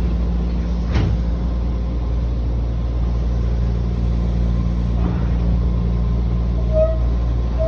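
Sanyo Electric Railway 3000 series train standing with its equipment humming steadily, and one sharp knock from its doors about a second in. Two short high tones sound near the end.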